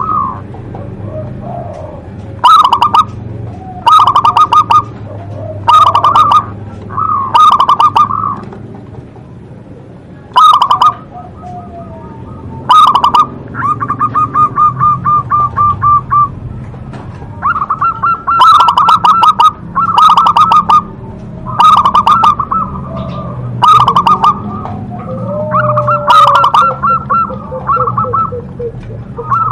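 Zebra dove (perkutut) cooing loudly and repeatedly. Each phrase is a rapid staccato trill, with one longer drawn-out trill near the middle, coming every second or two over a low background hum.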